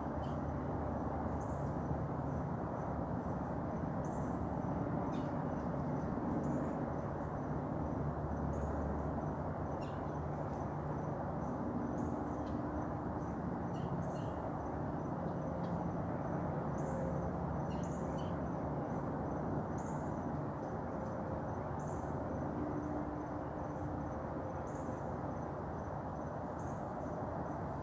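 Insects chirping in short high calls every second or two over a steady low rumble and hum of outdoor background noise.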